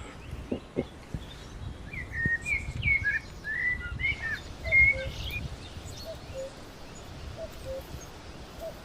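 Woodland songbirds chirping and warbling in a quick burst of short notes over a few seconds. After that, a fainter bird gives a low, falling two-note call, repeated about once a second. A low rumble runs underneath.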